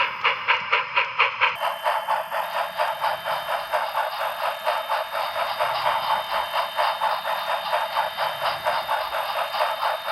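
HO scale model train running along the layout, with a steady rhythmic beat of about four to five pulses a second.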